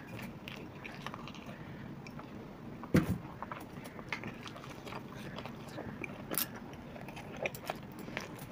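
Chewing and biting into fried pakoras, with scattered small crunches and clicks. A single loud knock comes about three seconds in.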